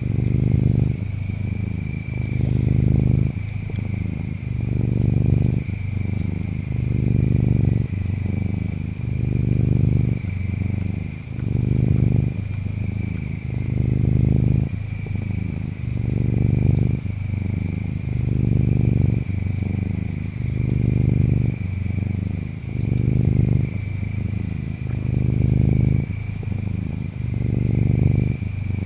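Domestic cat purring, its in-and-out rhythm swelling about once every two seconds, over insect chirping: a steady high trill with bursts of higher chirps every few seconds.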